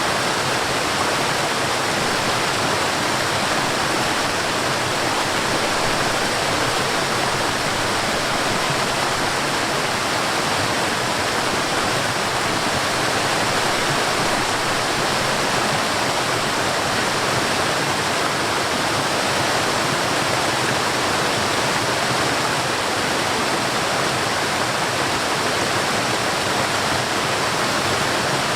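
Forest waterfall: water falling and rushing in a steady, even wash of noise.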